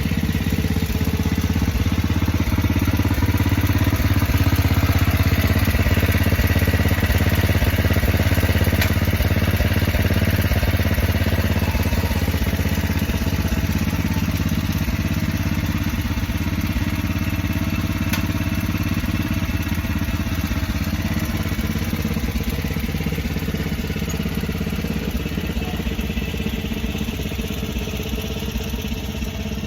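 1985 Murray lawn tractor's engine running steadily while the tractor is driven, gradually getting quieter over the second half.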